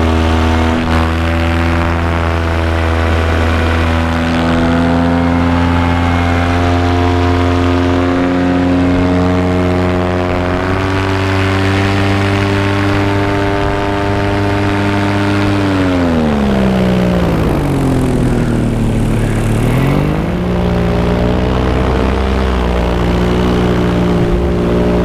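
Paramotor engine and propeller running in climbing flight, a steady pitched drone that steps up slightly about ten seconds in. Past halfway the engine slows, its pitch sliding down over several seconds, then picks back up.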